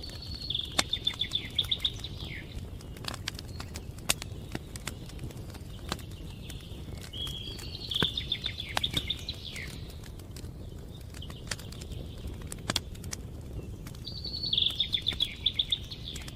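A songbird sings three short trilled phrases of rapid repeated notes, about seven seconds apart. Sharp pops and crackles from a burning wood fire sound throughout over a steady low rumble.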